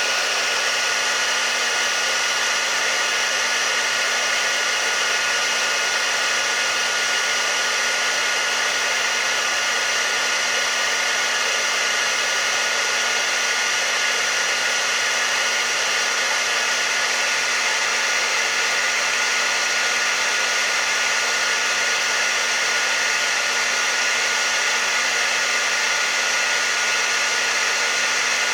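Hair dryer running steadily: an even, unchanging whoosh of blown air with a constant motor hum and a faint steady whine.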